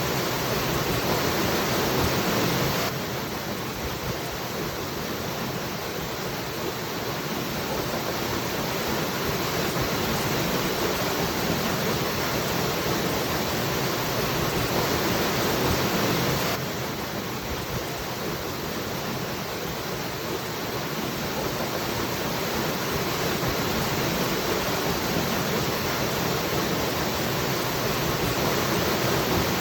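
Waterfall: a steady rush of falling water. It drops a little in loudness suddenly about three seconds in and again about halfway, and builds back up slowly each time.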